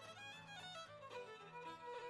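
Quiet background music: a violin or fiddle playing a slow melody over a low sustained accompaniment.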